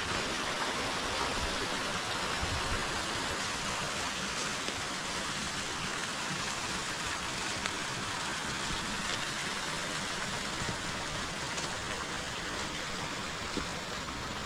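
River water flowing: a steady, even rushing of water.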